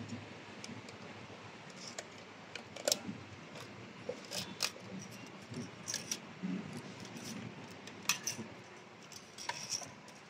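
Irregular clicks, clinks and light knocks of hand tools and small metal parts being handled, with sharp clicks about 3, 6 and 8 seconds in.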